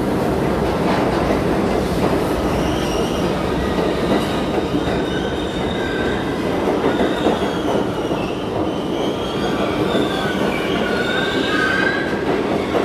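New York City subway F train running with a steady rumble, its steel wheels squealing on the rails in high, wavering tones that grow stronger in the second half.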